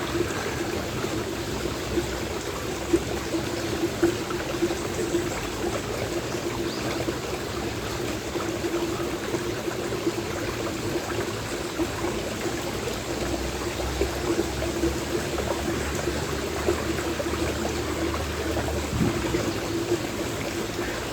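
Stream water flowing and trickling steadily, with a couple of brief sharp sounds about three and four seconds in.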